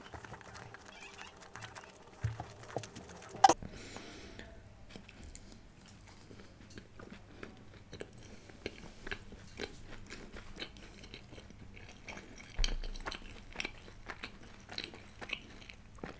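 A person chewing a mouthful of food close to a microphone: soft, irregular crunching and mouth clicks, with one sharper click about three and a half seconds in.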